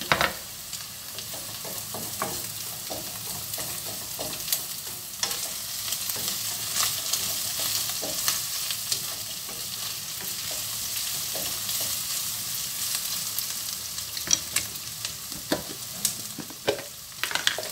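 Diced chicken, garlic and onion sizzling in oil in a nonstick wok, with a steady hiss. A wooden spoon stirs and knocks against the pan now and then, and the knocks come closer together near the end.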